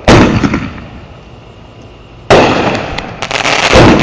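Consumer fireworks going off. A loud bang dies away over about a second; a second bang comes a little over two seconds in, followed by crackling and another bang near the end.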